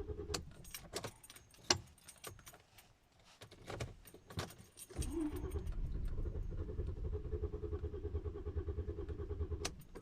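Car engine being cranked by the starter without firing: the engine turns over but won't start. A short stretch of cranking stops just under a second in, the key and keychain click and jangle for a few seconds, then the starter cranks again from about five seconds in until near the end.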